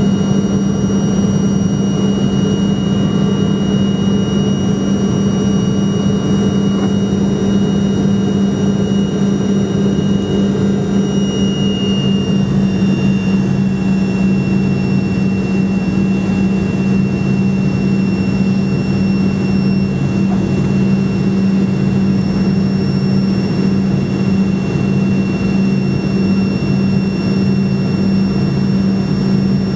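Fokker F28 Fellowship's Rolls-Royce Spey turbofans heard from inside the cabin: a steady loud drone with high whining tones over a low hum. About twelve seconds in, the whine shifts to a slightly different pitch.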